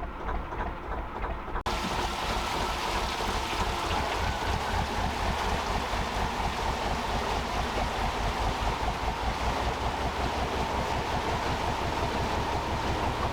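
Gardner 2LW two-cylinder diesel engine of a narrowboat running at a steady cruising speed, with an even low beat. About two seconds in, a steady rushing hiss suddenly joins it.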